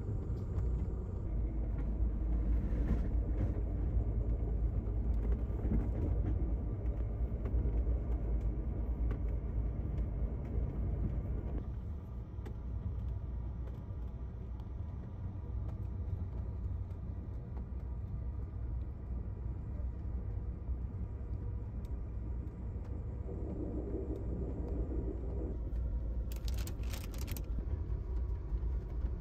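Steady low rumble of an Amtrak Superliner passenger car in motion, heard from inside the train. It drops a little in level partway through, and a few sharp clicks come near the end.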